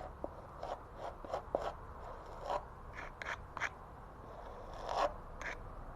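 Trowel scraping and spreading adhesive mortar over fibre mesh on a wall: a series of short, irregular scrapes, the loudest about five seconds in.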